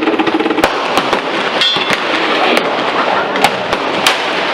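Gunshots on a shooting range: sharp reports at irregular spacing, several in a few seconds and of differing loudness, over a steady din of gunfire.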